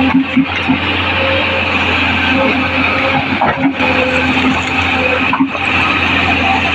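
Tracked hydraulic excavator running under work: a steady engine drone with a pitched whine that comes and goes, and a few light knocks.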